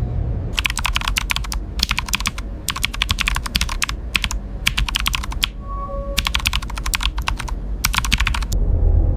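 Computer keyboard being typed on rapidly in a series of bursts with short pauses between them, over a steady low hum. A brief electronic tone sounds about six seconds in.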